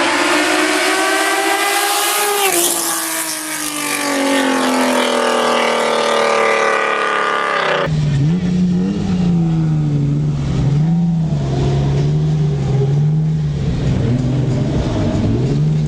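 First-generation Honda NSX V6 running hard, its pitch climbing for the first couple of seconds, then dropping and slowly falling away as the car passes. About eight seconds in it cuts abruptly to the V6 being lightly revved, the engine note rising and falling every second or so.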